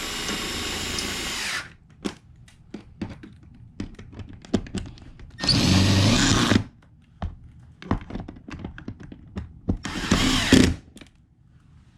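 Power drill driving a ceiling speaker's mounting screws in three short runs, with clicks and knocks of handling between them.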